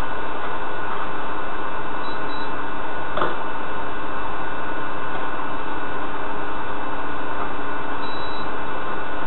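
Steady hum and hiss, with a single sharp click about three seconds in.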